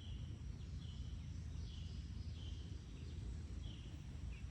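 Quiet outdoor ambience: a steady low rumble with short, high chirps from a small creature repeating about once a second.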